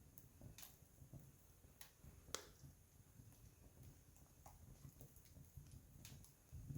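Wood campfire crackling: scattered sharp pops and snaps of burning wood, one louder pop about two and a half seconds in, over a faint low rumble.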